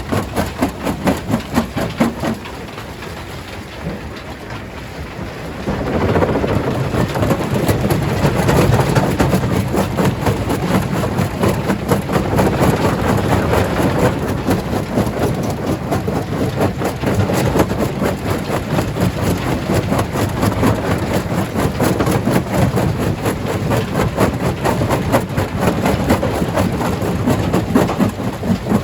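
Stone crusher at work on rock: a heavy engine's pulsing note, which drops away for a few seconds, then a dense rumbling clatter of stone being broken that starts about six seconds in and keeps going.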